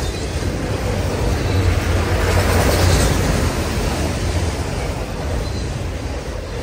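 Freight train passing, a steady rumble of wheels on rail that swells about two to three seconds in.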